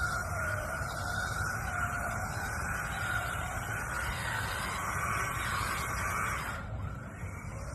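Brushless electric motor of a 1/14-scale RC drift car whining, its pitch sliding up and down with the throttle, over a rough rumble. The upper hiss drops away near the end.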